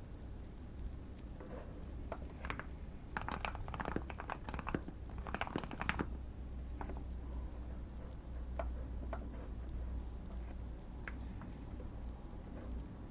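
Typing on a Keychron Q1 mechanical keyboard modded with foam and tape for a thocky sound: a quick run of keystrokes in the first half, then a few scattered single keys, over a steady low background rumble.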